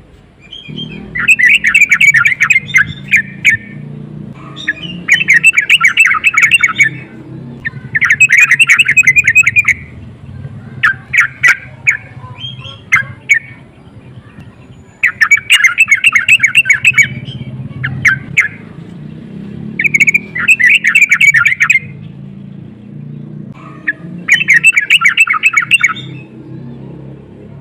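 Yellow-vented bulbul (trucukan) singing: bursts of rapid, chattering notes, each about two seconds long, repeated roughly every three to four seconds over a steady low hum. This is the bird's song in breeding condition ('birahi').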